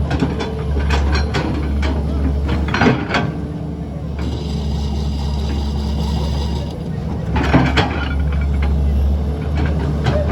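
Heavy diesel machinery running steadily, with scattered clanks and knocks. A high squeal comes in for a couple of seconds near the middle.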